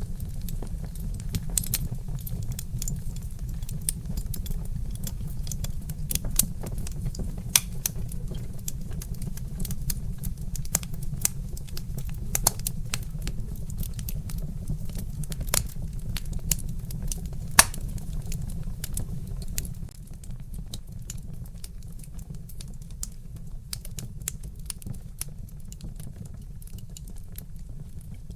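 Wood fire crackling, with irregular sharp pops and snaps over a steady low rumble. The rumble eases off a little about two-thirds of the way through.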